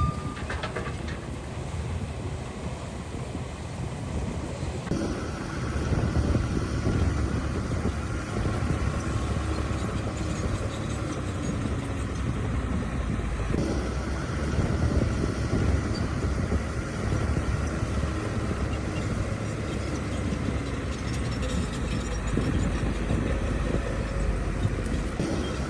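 Bulldozer's diesel engine working with a continuous heavy rumble, getting louder about five seconds in.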